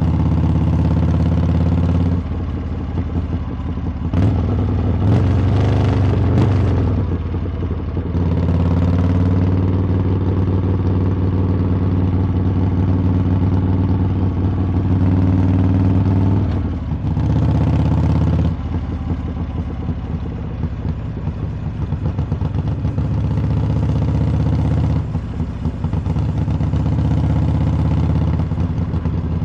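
Harley-Davidson V-twin motorcycle running under way with a loud exhaust note. The throttle is rolled off and opened again several times, so the engine note drops and climbs in steps.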